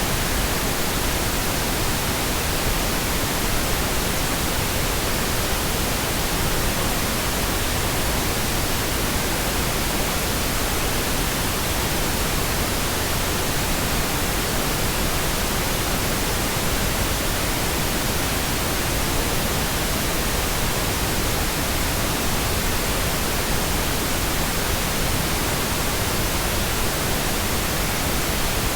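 Steady, uninterrupted pink noise: an even hiss spread across all pitches, unchanging throughout.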